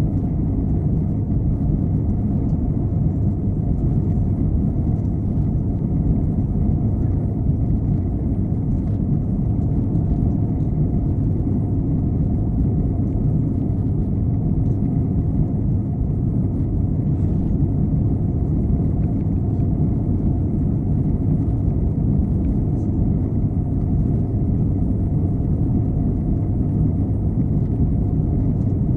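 Steady low rumble inside an Airbus A321 cabin in flight: airflow and engine noise, unchanging throughout.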